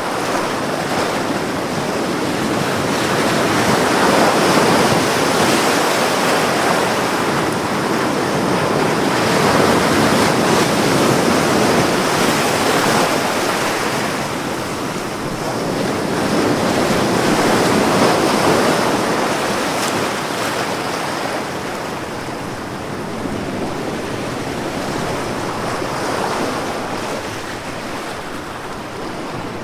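Ocean waves breaking and washing on a beach, the surf swelling and easing in slow surges every several seconds.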